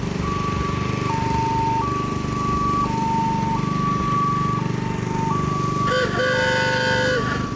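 Two-tone vehicle siren alternating between a high and a low note about every three-quarters of a second, over a running truck engine. About six seconds in, a horn blasts for about a second.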